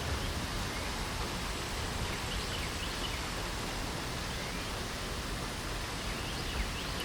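Steady hiss of light rain falling, with small birds giving short high chirps now and then over it.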